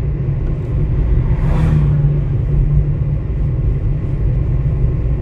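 Car driving along a road: a steady low engine and road rumble, with a brief swell of hiss about a second and a half in.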